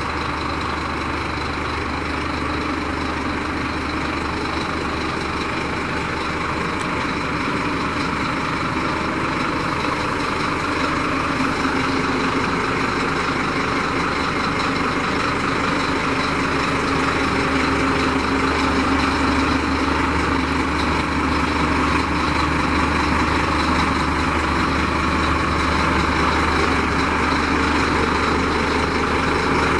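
Scania P310 tipper truck's diesel engine idling steadily, growing slightly louder partway through.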